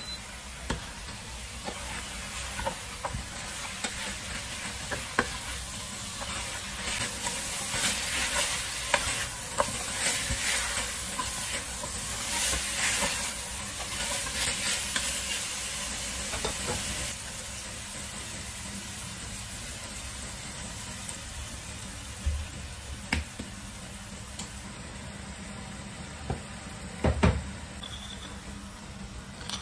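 Chicken pieces sizzling in a stainless steel pot while being stirred, the utensil scraping and clicking against the pot, busiest in the first half. Later the sizzle runs on more evenly, with a few sharp knocks near the end.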